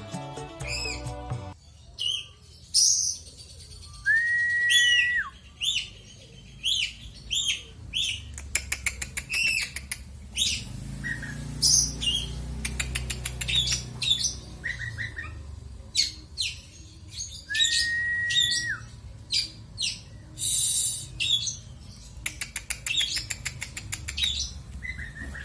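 Oriental magpie-robin (kacer) singing a long varied song of sharp whistles, downward chirps and rapid clicking trills, with two long flat whistles, one a few seconds in and one past the middle. Background music plays briefly at the start.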